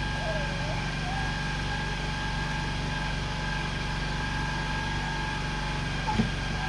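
An engine idling steadily, a constant low drone that holds even throughout, with a few faint short chirps over it.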